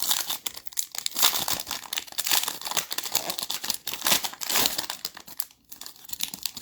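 Plastic-foil wrapper of a Panini Select basketball card pack crinkling and tearing as it is ripped open, with an irregular crackle throughout.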